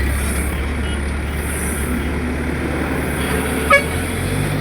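Heavy vehicle engine running steadily at a low rumble, its pitch stepping up near the end as it is revved. One brief, sharp, high sound comes about three and a half seconds in.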